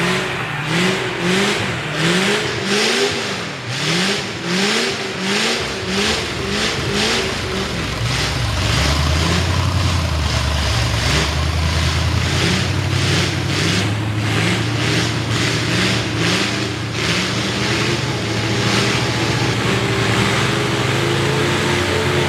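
V8 engine with open upright headers revved in quick repeated throttle blips, each a short rising sweep, for about the first eight seconds. Then the revving gives way to a steady, low engine drone.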